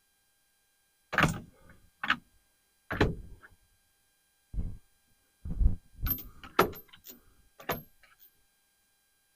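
A run of about eight sharp knocks and clunks, each dying away quickly, as gear is shifted about and set down. They come in two clusters: three spread out early on, then a quicker flurry in the second half.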